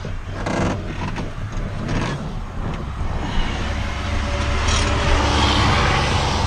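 Road traffic: a steady low rumble, with a passing vehicle swelling louder in the second half.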